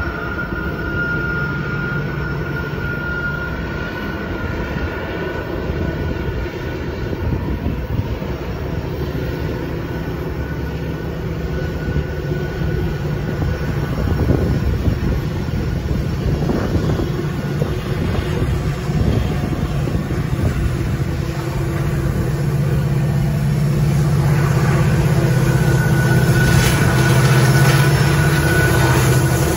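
Double-stack intermodal freight train rolling past: a steady rumble of wheels on rail, with a thin high tone at the start and again near the end. In the last several seconds the drone of Union Pacific diesel locomotives on a second train grows louder as they approach.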